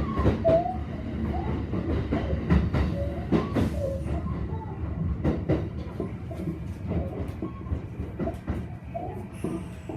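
Kintetsu train car running, heard from inside the cabin: a low rumble with many short, irregular creaking squeaks from under the floor, the repeated 'kiko-kiko' creak, mixed with sharp clicks.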